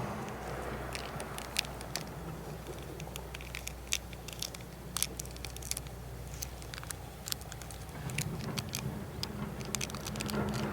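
Wood campfire crackling, with irregular sharp pops, over a low background rumble that swells again near the end.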